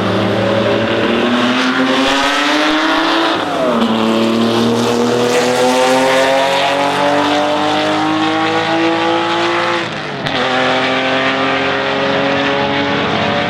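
Racing car engine pulling hard under acceleration, its pitch climbing steadily and dropping sharply at upshifts about 3.5 seconds in and again about 10 seconds in.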